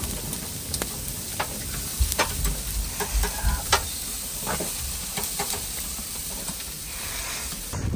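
Food frying in a hot pan: a steady sizzle with many short clicks and pops scattered through it.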